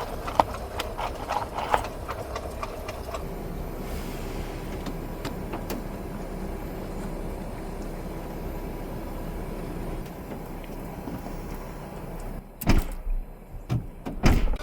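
Steady background hiss with scattered light clicks, then two heavy thumps near the end, about a second and a half apart; the hiss drops away after the first thump and returns after the second.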